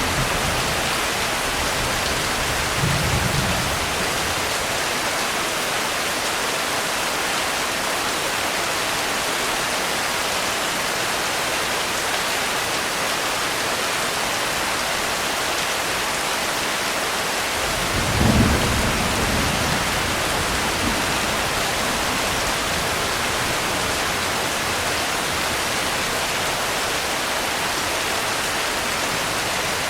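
Steady rain falling, with two low thunder rumbles: a short one about three seconds in and a louder one a little past the middle.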